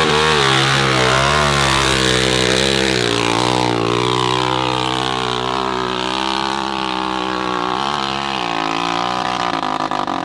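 Dirt bike engine running hard and revving, its pitch rising and falling with the throttle.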